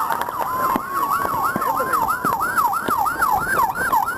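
Emergency vehicle sirens passing, among them an ambulance: one siren yelping rapidly up and down, about four sweeps a second, while a second holds a slow wail that creeps up in pitch.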